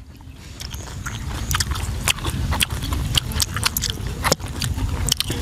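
Close-miked eating of grilled fish and rice: irregular wet chewing and mouth clicks, several a second, over a steady low rumble.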